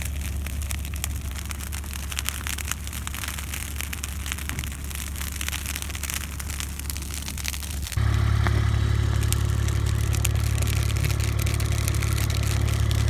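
A vehicle engine running steadily, with light rattling clicks. It turns suddenly louder and fuller about eight seconds in.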